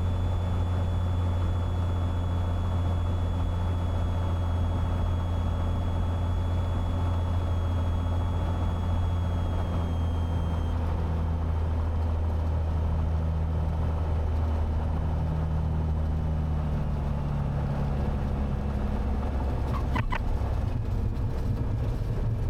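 Cessna 182T's six-cylinder Lycoming engine and propeller, a steady low drone heard inside the cabin, easing slightly lower in pitch about two-thirds of the way through. A faint high whine fades out about halfway.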